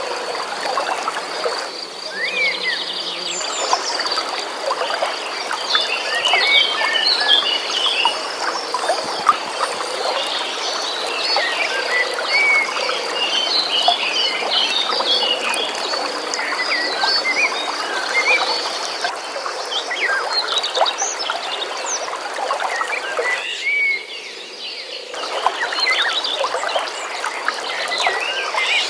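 A chorus of many short chirping calls from birds and frogs over the steady sound of flowing water, with a constant high-pitched trill running underneath.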